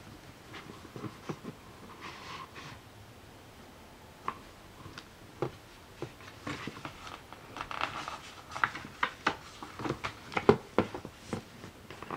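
Handling noise from a children's sound book being handled: rustling and a series of sharp clicks and taps, sparse at first and coming thick and fast in the second half.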